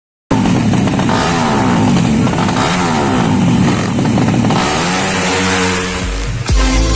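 Drag-racing motorcycle engines revving hard, their pitch climbing and dropping again and again with the lines of more than one engine crossing. Near the end, electronic dance music with a heavy beat cuts in over them.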